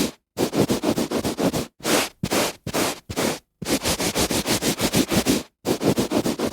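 A hand rubbing briskly back and forth on carpet, quick even strokes about six a second. The strokes come in runs broken by several short, sudden pauses.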